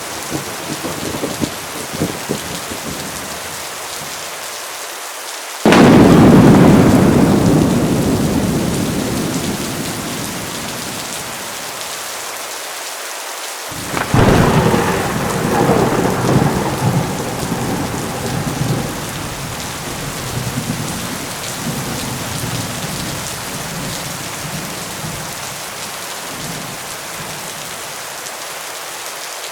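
Heavy rain falling steadily with two thunderclaps: a sudden loud crack about five seconds in that rolls away over several seconds, and a second sharp clap about halfway through followed by a long rumble.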